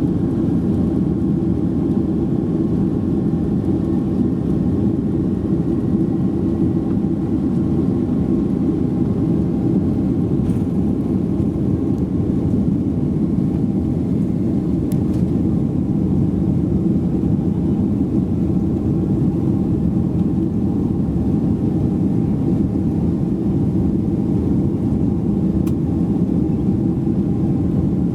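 Steady cabin roar inside a Boeing 767-300ER in flight: engine and airflow noise, deep and unchanging, with a faint steady hum above it.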